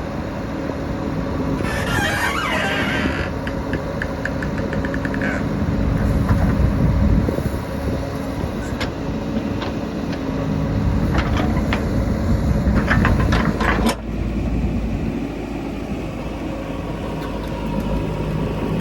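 JCB backhoe loader's diesel engine running under load, with two spells of clattering and rattling as the loader works the murum. About fourteen seconds in the sound changes suddenly to a steadier low engine hum.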